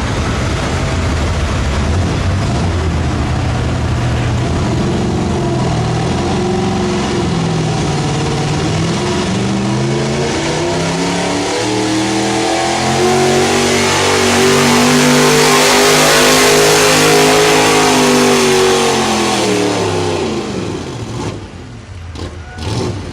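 Modified 4x4 Ford pickup truck's engine at high revs during a truck-pull run. The pitch wavers at first, then climbs steadily to its loudest past the middle, then winds down and drops off near the end as the pull finishes.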